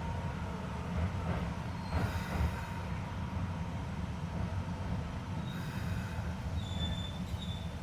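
Keisei 3400 series electric train heard from inside the passenger car, rolling with a steady low rumble and a few wheel clicks. A brief high-pitched wheel squeal comes near the end.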